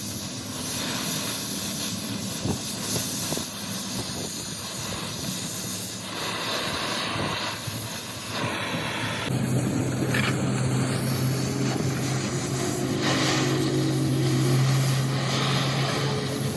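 Workshop machinery running with a steady, noisy din. About nine seconds in, a steady low machine hum starts and keeps running.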